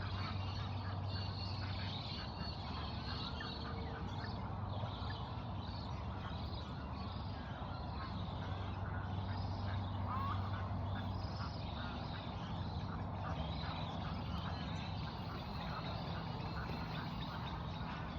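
Many birds chirping and calling over one another in a steady chorus, with a steady low hum underneath.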